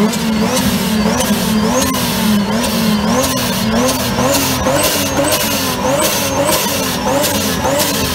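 A BMW E36 drift car's engine is revved in quick repeated blips, about two a second. The pitch rises and falls with each blip, and a high, rising whistle comes with every one.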